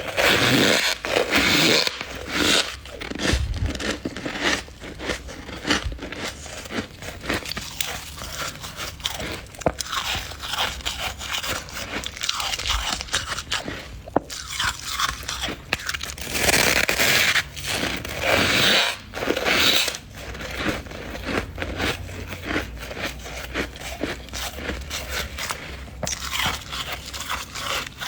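Freezer frost crunching: packed frost scraped loose and bitten and chewed, close to the microphone, with irregular crunches and a few louder bouts.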